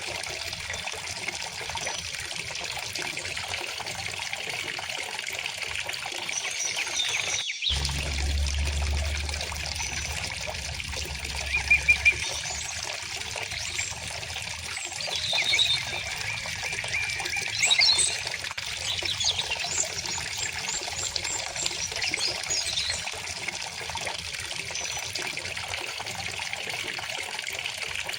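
Stream water flowing and trickling steadily, with songbirds chirping in short high calls now and then, most often in the second half. A brief dropout comes about a quarter of the way in.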